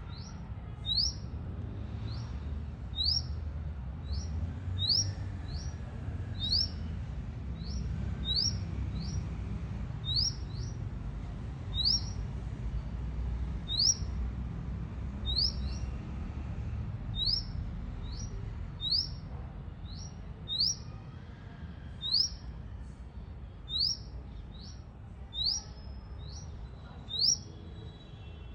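A bird calling repeatedly with short, sharply rising high chirps, sometimes doubled, about one every second or two, over a steady low rumble.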